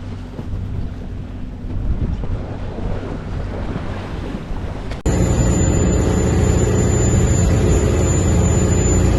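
Wind buffeting the microphone over the wash of the sea, with a low engine hum underneath. About five seconds in it cuts abruptly to a louder, steady boat engine drone.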